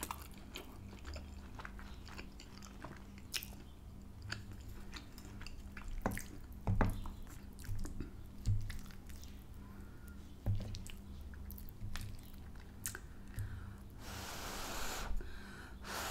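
Close-miked chewing and mouth sounds of soft chips, stewed steak and stringy melted mozzarella in gravy, with light clicks of a wooden spoon in a glass dish. Near the end come two breathy puffs as the hot, cheesy spoonful is blown on.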